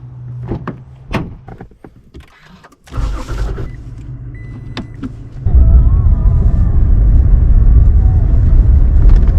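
A few clicks and knocks, then a pickup truck's engine starting about three seconds in, with a short steady beep. The engine then runs as a loud, steady low rumble from about halfway as the truck drives off.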